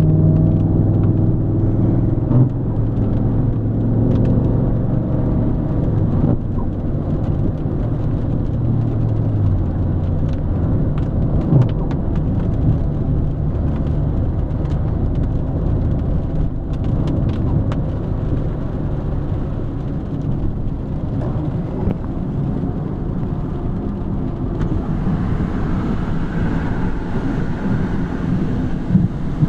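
A car driving on rain-wet roads, heard from inside: steady engine and tyre noise, with the engine note fading after about ten seconds and a brighter hiss of tyres on water near the end.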